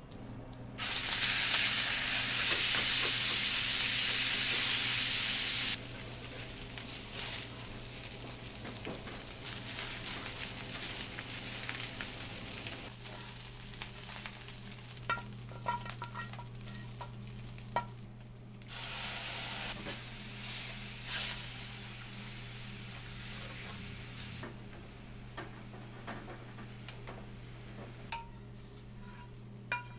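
Beef frying in hot steel pans: a loud sizzle for several seconds near the start, then a quieter steady sizzle with a second loud burst about two-thirds of the way through. Stirring and scraping with scattered metal clinks of pans, over a steady low kitchen hum.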